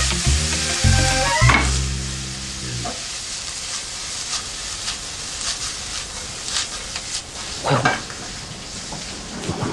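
Food sizzling as it is stir-fried in a frying pan, with the spatula scraping and clinking against the pan now and then. Background music plays over the first few seconds, then stops.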